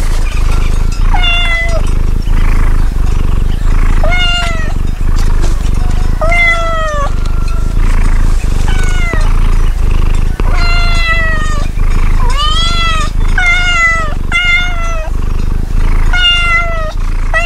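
Domestic cat meowing over and over, a dozen or more separate meows, each under a second and many dropping in pitch at the end, over a steady low hum.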